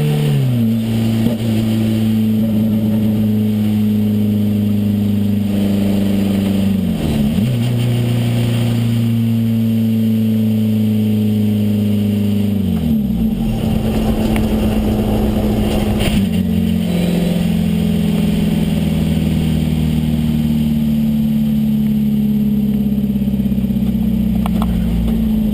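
Renault 5 Turbo's turbocharged four-cylinder engine heard from inside the cabin, running at steady moderate revs. Its pitch dips briefly and recovers three times, about 7, 13 and 16 seconds in.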